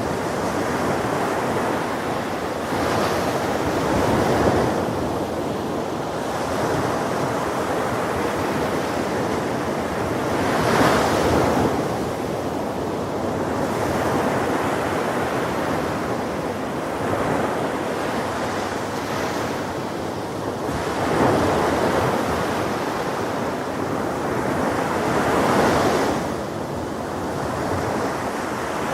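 Ocean waves breaking on a shore in a continuous wash, with a louder wave crashing every few seconds, strongest about four, eleven, twenty-one and twenty-six seconds in.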